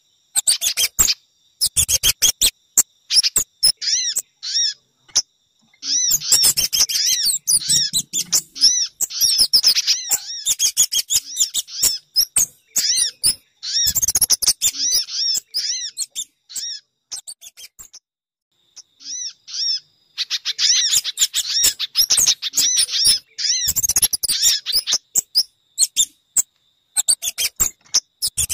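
Recorded bird-lure calls for Sogon, spiderhunter (pijantung) and Kemade birds: dense runs of rapid, high-pitched chirps in bursts, broken by short pauses.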